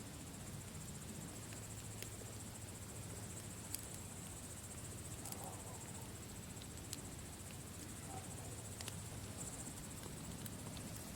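Campfire crackling faintly, with a few sharp pops scattered through. Under it run a steady high-pitched chirring of crickets and a low rumble.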